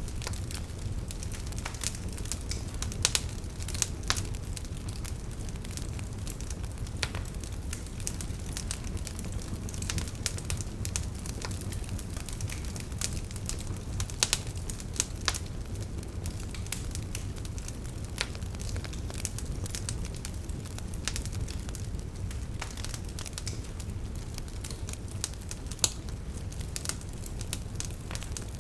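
Wood fire crackling, with irregular sharp pops and snaps over a steady low rumble; a few louder pops stand out.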